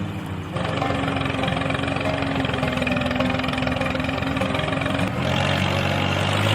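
Small engine running with a rapid, even pulsing; about five seconds in, the sound changes to a steadier low hum.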